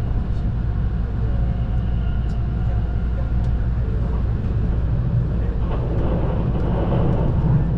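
Train running along the track, heard from inside the carriage: a steady low rumble of wheels and running gear that grows a little louder near the end.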